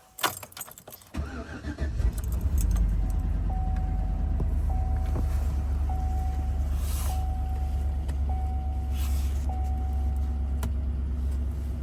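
2007 Chevrolet Tahoe's V8 cold-started: after a few clicks of the key it cranks briefly, catches about two seconds in, and settles into a steady idle. A short warning chime pings over it about once a second.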